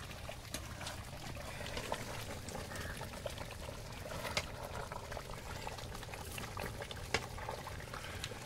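Thick chicken curry bubbling and sizzling in a pot as the meat nears done, with scattered sharp pops.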